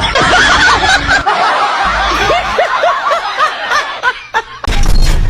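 Many people laughing at once, like a laugh track, with overlapping chuckles. Near the end comes a louder burst with a deep rumble.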